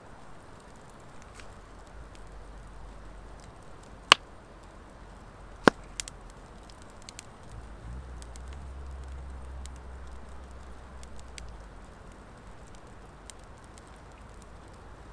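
Campfire of driftwood and dry hardwood crackling over a steady low hiss, with scattered small ticks and two loud pops about a second and a half apart near the middle.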